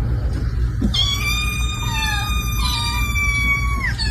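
An animal's long, high-pitched cry, held for about three seconds and dropping in pitch at the end, over a steady low hum.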